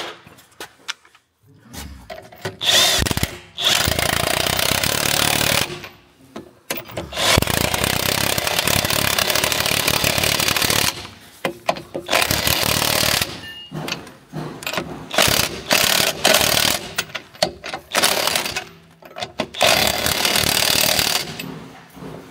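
Impact wrench with a 19 mm socket hammering on the rear leaf-spring bolts, running in several bursts of a few seconds each with short pauses between.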